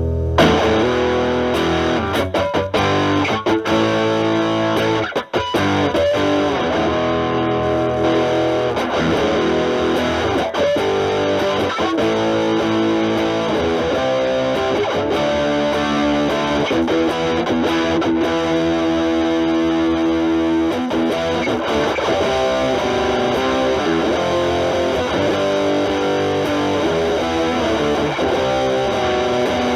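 Electric guitar with distortion: a Stratocaster with single-coil pickups played through a ProCo RAT2, its distortion knob at about 2 o'clock, stacked with an Ibanez TS9 Tube Screamer as a gain boost into a Marshall Valvestate amp. The guitar plays improvised blues-style lead lines.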